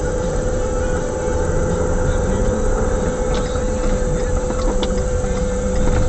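Strong wind buffeting the microphone, a loud, steady low rumble, with a faint steady hum and a few light clicks.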